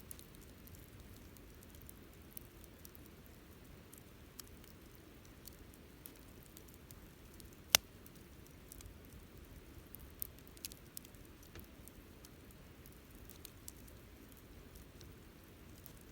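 Wood campfire crackling: scattered sharp snaps and pops over a faint low steady rumble, with one loud pop about halfway through.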